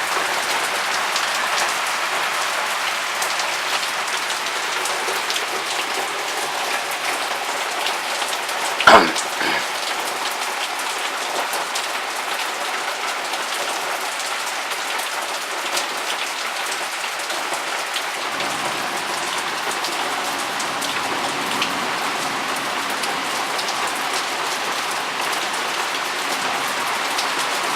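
Heavy thunderstorm rain pouring steadily, with a single sharp knock about nine seconds in.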